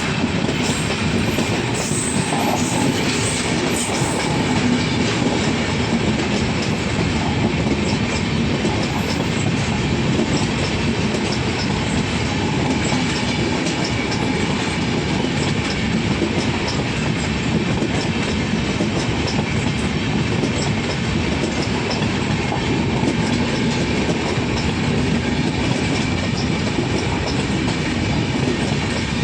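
Indian Railways superfast express train passing at high speed, wheels clattering over the rail joints in a steady, loud rush of noise.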